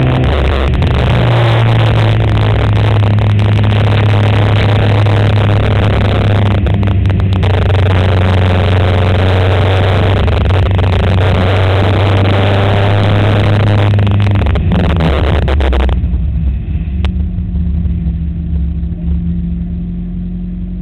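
Race car engine running hard at a steady high pitch, heard loud from inside the car. About fifteen seconds in, the engine note drops and it runs on quieter at lower revs.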